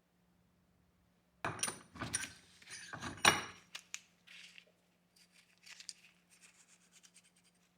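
Small metal parts being handled: a quick run of sharp clicks and scrapes, loudest about three seconds in, then lighter scattered ticks and scraping. A faint steady hum runs underneath.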